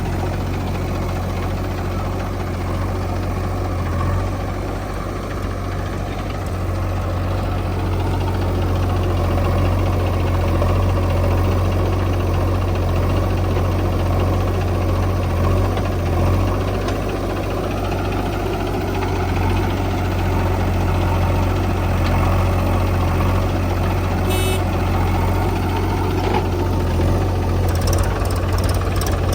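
Diesel engines of a backhoe loader and tractors running steadily at a loading site, a little louder after the first several seconds, with a few brief clanks near the end.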